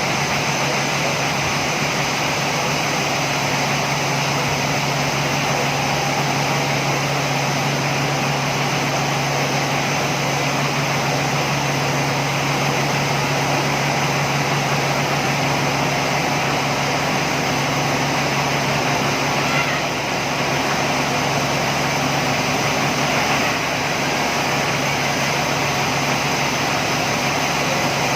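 Sawmill machinery running steadily, a constant machine hum with one steady low tone under a loud even noise.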